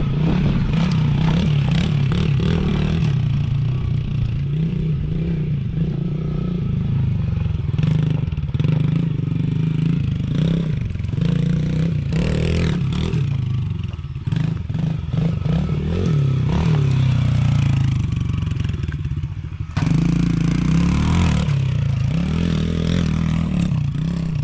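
Small single-cylinder four-stroke 110cc pit bike engine being ridden hard, its revs rising and falling over and over. It eases off briefly twice, about halfway through and again a little later, then revs back up loudly.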